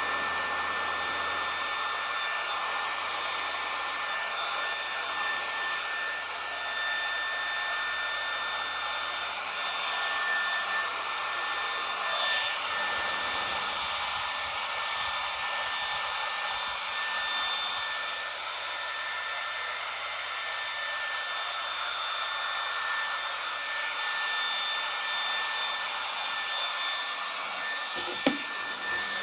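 Remington HC6550 cordless vacuum hair clippers running steadily, a high motor whine over the airy hiss of the built-in vacuum fan as they cut hair. A short click near the end.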